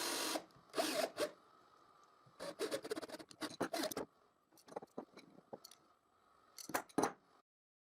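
Self-locking nuts being threaded and tightened onto the ends of a threaded-rod shaft: small metal clicks and scrapes in several short bursts with quiet gaps between. A steady whirring cuts off about half a second in.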